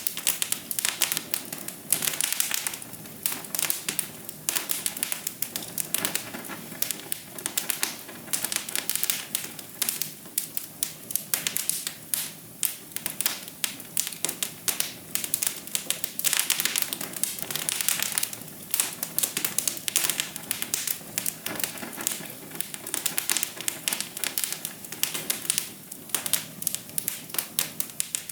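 Wood fire crackling in a fireplace: a dense, irregular run of sharp crackles and pops over a soft low rush.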